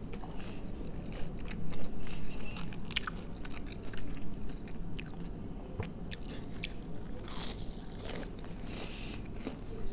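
A person biting into and chewing crunchy deep-fried breaded snacks, with irregular crunches and crackles and a few sharper bites among them.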